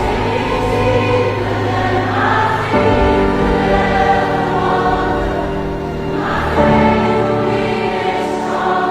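Christian worship music: a choir singing sustained chords over a low bass, the chord changing about every three to four seconds.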